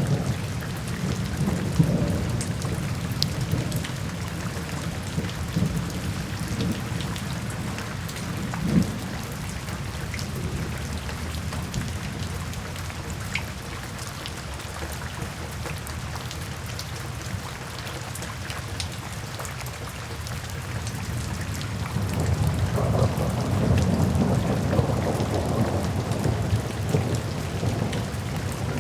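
Steady rain falling, with scattered drop clicks and a low thunder rumble that eases off and then builds again near the end.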